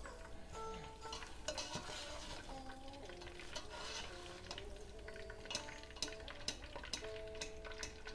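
Food frying in hot oil in a pan, a steady sizzle with frequent sharp clicks of utensils stirring, over soft background music with a slow melody.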